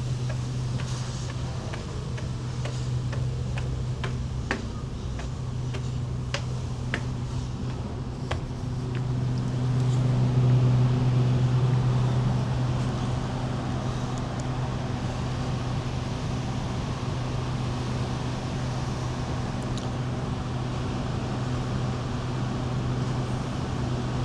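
Steady low machinery hum aboard a cruise ship, a constant drone that swells briefly near the middle. In the first third, a series of short sharp taps sounds over it.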